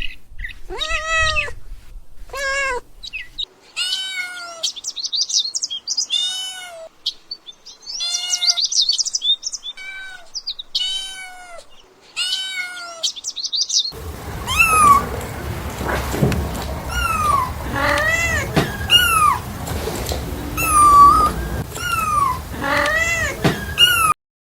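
Kitten meowing over and over, short meows that rise and fall in pitch, about one a second. About halfway through, the background turns noisier and the meows come higher and closer together.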